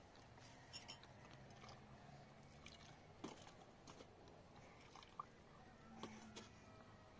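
Near silence with a handful of faint, scattered clicks and crackles.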